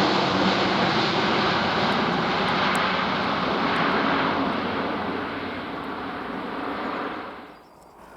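Airbus A400M's four turboprop engines running, a steady drone with a low hum, growing fainter and fading out near the end.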